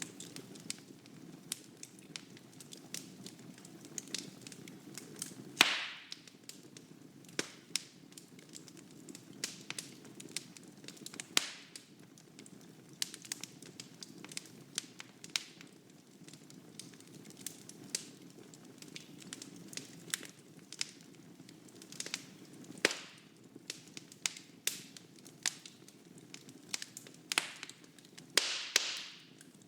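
Wood fire burning in a fireplace: a steady low rumble of flames with frequent sharp crackles and pops of burning logs, a few louder pops and a brief hiss near the end.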